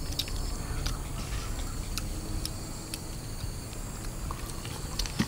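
Faint clicks and crunches of someone eating crispy deep-fried battered pork, over a steady high drone of insects.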